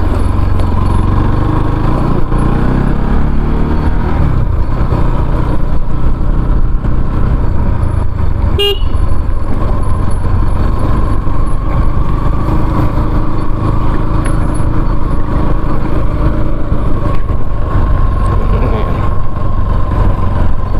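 Motorcycle riding along a road: steady engine and road noise, with a brief beep about nine seconds in.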